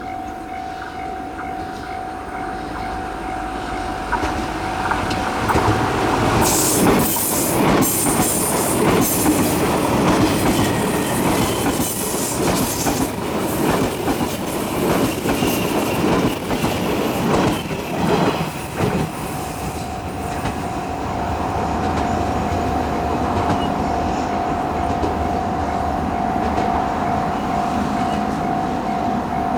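A level-crossing warning bell rings steadily while a 381 series electric limited express train passes over the crossing. The train's wheels clatter loudly over the rail joints from about six seconds in to about nineteen seconds, drowning out the bell, which is heard ringing on its own again after the train has passed.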